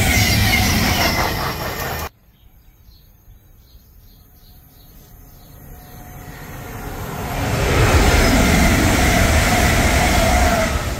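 A train passing at speed that cuts off suddenly about two seconds in, then another train approaching, growing steadily louder until it passes loudly near the end.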